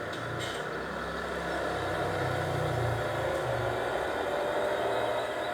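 A large engine running steadily with a low rumble, a faint whine rising slowly in pitch in the second half.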